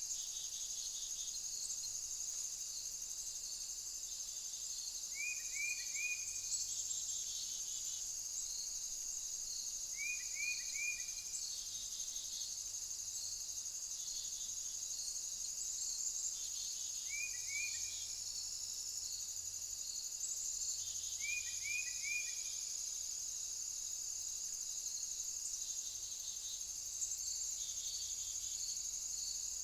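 Steady high-pitched insect chorus, typical of crickets, runs throughout. Over it, a quick series of three or four short chirps repeats every few seconds.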